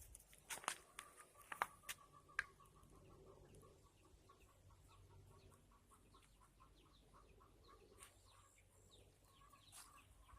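Desi chickens clucking and chirping faintly, with a few sharp clicks in the first couple of seconds and a rapid run of soft pulses for several seconds after.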